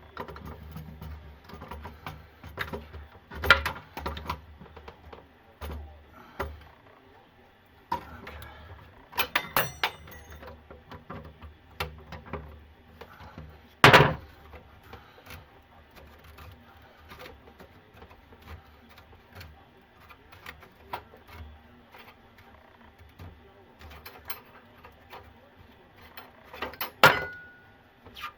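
Scattered clicks, clinks and knocks of hand tools and sink drain pipe parts being handled and worked loose. A sharp knock stands out about halfway through, and another near the end rings briefly.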